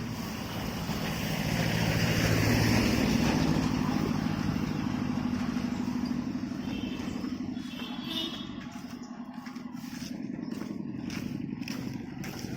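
A motor vehicle's engine passing close by on the road, rising to its loudest about two to three seconds in and then fading, with traffic running on steadily behind it.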